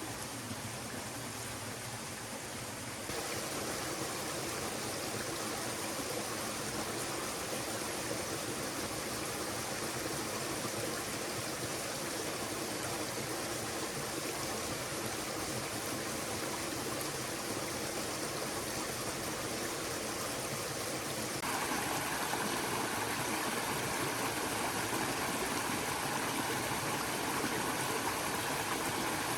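A stream of running water with a steady rushing and trickling. It gets suddenly louder about three seconds in and again past the two-thirds mark.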